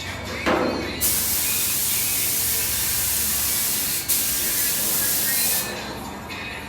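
Pressurised spray hissing in two long blasts, about three seconds and then a second and a half, with a short break between them.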